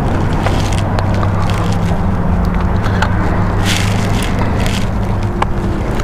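Harley-Davidson V-twin engine running under way, a steady low drone picked up by a microphone inside a helmet's chin, with a few sharp clicks and crackles over it.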